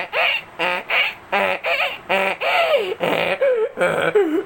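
A man imitating a donkey's bray with his voice: a quick run of short, pitched calls, about two a second, that bend up and down in pitch.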